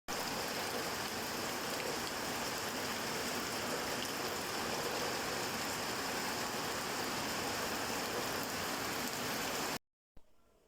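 Steady rain falling, a dense even hiss of drops on surfaces; it cuts off abruptly near the end, followed by much quieter outdoor ambience.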